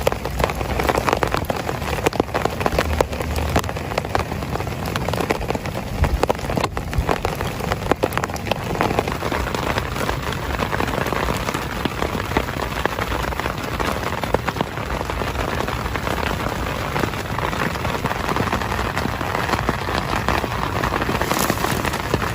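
Heavy rain falling steadily, a dense patter of individual drops striking a surface close by.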